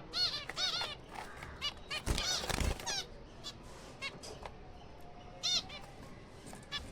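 Zebra finches in a colony calling: repeated short, nasal honking calls, bunched at the start, about two to three seconds in and again near the end. A loud brief flurry of noise comes about two seconds in.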